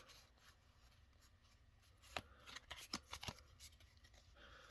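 Faint handling of Pokémon trading cards, a few light clicks and rustles from about two to three and a half seconds in, with near silence around them.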